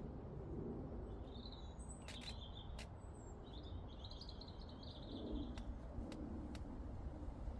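Small songbirds chirping in short high phrases, the longest a little after halfway, over a steady low rumble of breeze. A few sharp clicks are heard.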